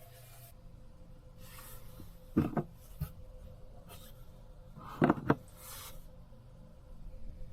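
Small objects being handled: brief rustles and two short clusters of quick knocks, about two and a half seconds apart, with a single lighter knock between them.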